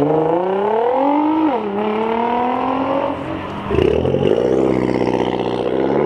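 A car's engine accelerating hard through the gears, its pitch climbing and then dropping at each upshift, twice, with a short loud burst at the second shift about four seconds in.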